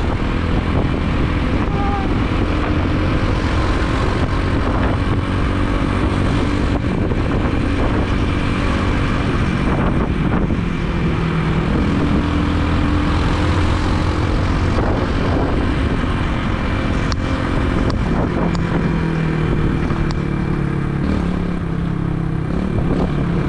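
Motorbike engine running while riding through city traffic, its pitch rising and falling with the throttle, under steady wind and road noise on a helmet-mounted camera microphone.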